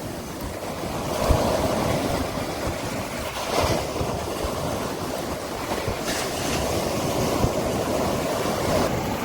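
Sea waves breaking and washing up the beach in a steady rush, swelling a few times as waves come in.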